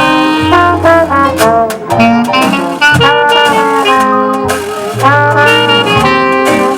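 Live New Orleans jazz band playing: brass horns carrying the melody over a low bass line, with sharp percussive strikes in the rhythm.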